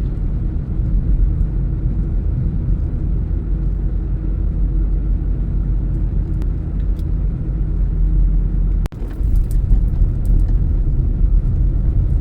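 Steady low rumble of a car driving on the road, with a brief dip in level about nine seconds in.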